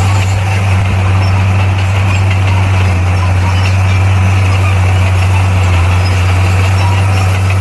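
Bulldozer's diesel engine running with a steady, unchanging low drone.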